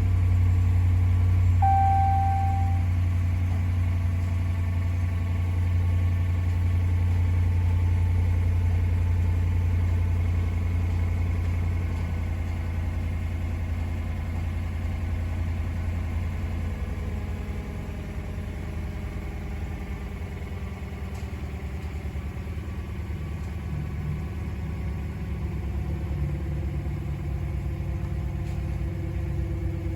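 2015 Ram 1500's 5.7-litre Hemi V8 idling steadily, its level easing slightly about halfway through. A short electronic beep sounds about two seconds in.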